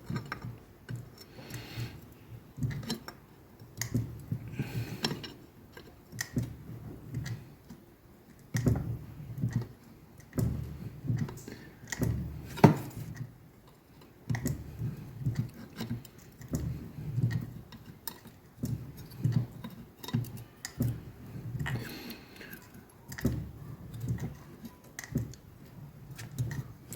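Fly press worked in repeated short strokes, its ram knocking vein tooling into cold 2 mm steel plate about every second or two, with light metallic clinks as the plate is shifted between strokes. One sharp knock stands out about halfway through.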